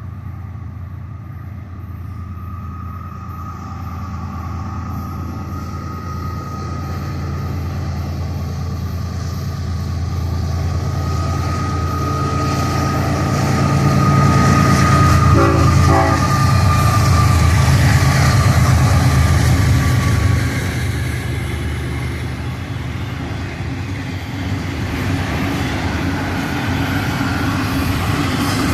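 Florida East Coast Railway freight train approaching and passing: the diesel locomotives' heavy rumble builds, and the air horn blows a long held chord from about eleven to twenty seconds in, its pitch sagging slightly at the end as the locomotives go by. The rumble of the train carries on after the horn stops.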